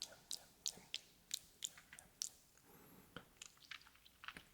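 ASMR mouth sounds made close to the microphone: sharp, wet clicks and smacks of lips and tongue, like chewing. They come about three a second at first, then turn softer and more scattered.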